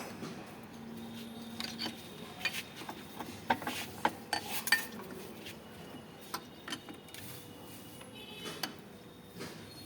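Metal parts and hand tools clinking and tapping against each other while a motorcycle rear shock absorber is worked on by hand: irregular sharp clinks, with a cluster of louder ones a few seconds in.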